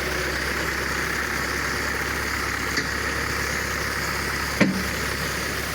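Kubota engine running steadily, driving a high-pressure sprayer pump. A light click a little before midway, and a sharp knock about three-quarters through.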